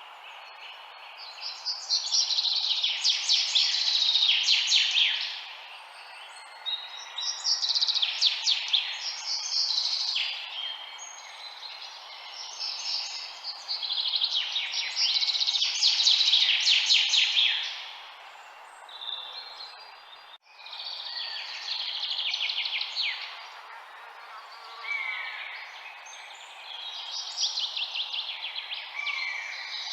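Birds singing and chirping, in dense bursts of rapid high notes every few seconds, over a steady background hiss. The sound drops out for a moment about two-thirds of the way through.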